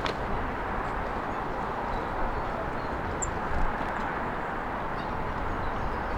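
Steady hiss and rumble of road traffic, with one short high bird chirp about three seconds in.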